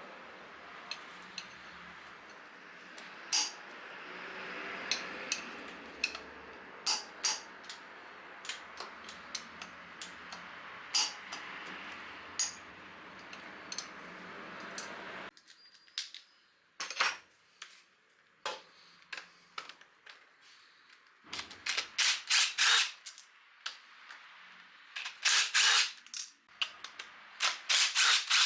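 Metal tools and parts clinking and clicking in sharp, separate knocks. A steady background hiss cuts off suddenly about halfway through, and the later clinks come in quick clusters.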